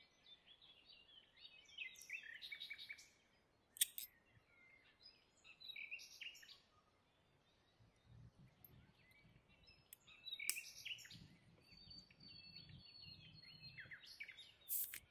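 Faint birdsong: many short chirps and twitters, with a few sharp clicks, the loudest about four seconds in and another just before the end.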